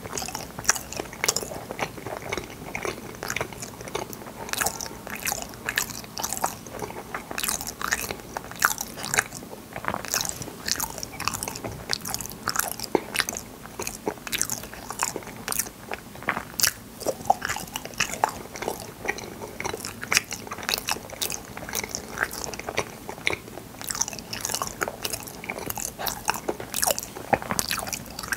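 Close-miked chewing and biting of fruit yanggaeng (sweet bean jelly): a steady stream of wet smacks, sticky squelches and small crunches, several a second, with no pauses.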